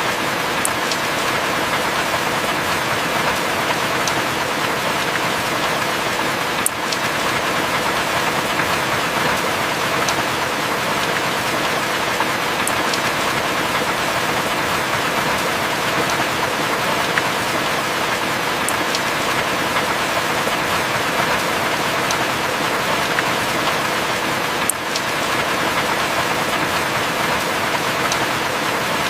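Heavy rain falling steadily, with scattered sharp drip ticks.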